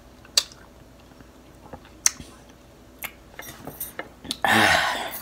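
Close-miked mouth sounds of a person chewing a strawberry: a few sharp, wet clicks and smacks spaced about a second apart, then a loud breathy burst near the end.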